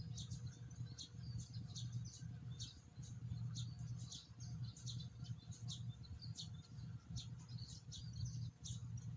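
Small birds chirping, a rapid run of short, high calls, about two or three a second, over a low steady rumble.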